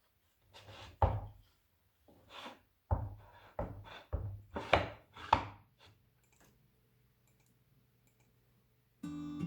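Wooden pieces being handled and knocked together: an irregular series of about ten sharp knocks and clatters over about five seconds.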